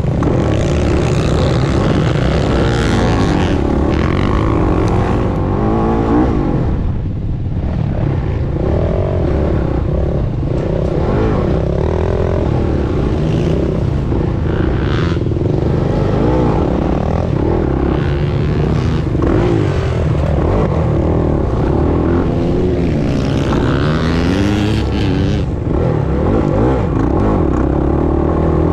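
Dirt bike engine revving up and down over and over as it is ridden hard, with a brief drop in throttle about seven seconds in.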